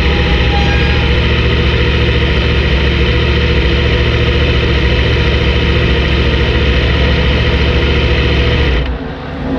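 Yamaha R1 sport motorcycle's inline-four engine idling steadily, heard close up from a fairing-mounted camera; the sound drops away abruptly about nine seconds in.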